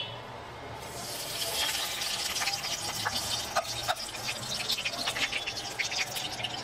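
Food sizzling in hot oil in a pan, a steady hiss full of sharp crackles that starts about a second in.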